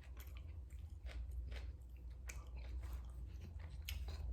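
Close-miked chewing of a Subway sub sandwich: irregular wet mouth clicks and smacks over a steady low hum.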